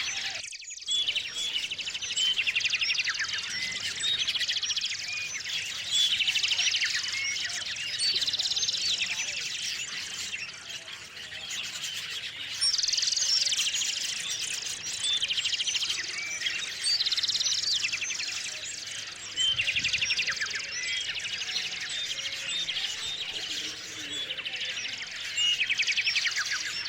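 Small songbirds singing and chirping, with fast trilled phrases repeated every couple of seconds over a chorus of calls. The sound cuts out briefly about half a second in.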